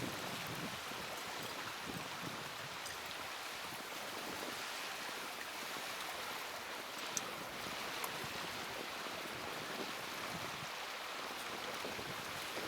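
Small wood fire burning in a mini fire stand: a steady hiss with a few sharp crackles.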